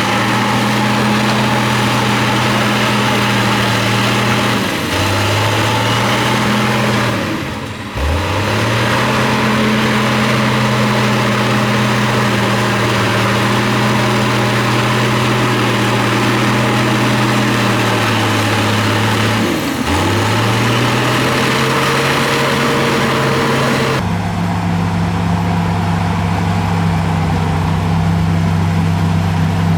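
Diesel engine of heavy earthmoving machinery running under load: its steady note sags in pitch several times, once dropping deeply, and climbs back each time. Near the end the sound changes abruptly to another steady engine note.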